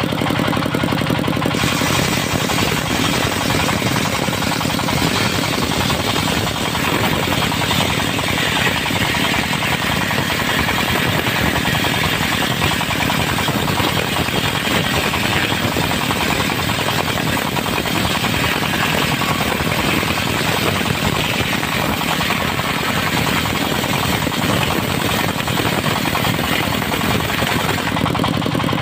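Diesel engine of a portable circular sawmill running steadily while its disc blade cuts through dry teak, a dense high hiss of cutting that starts about a second and a half in and stops just before the end.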